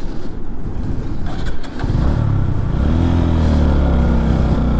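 Motorcycle engine under load, with a rumbling start and then revving up about two seconds in and holding at high revs as the bike labours up a slope.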